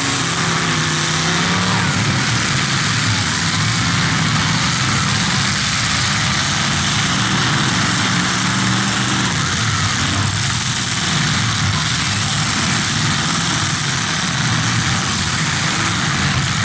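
Several demolition derby cars' engines running and revving together, their pitch rising and falling over a loud, steady wash of engine noise.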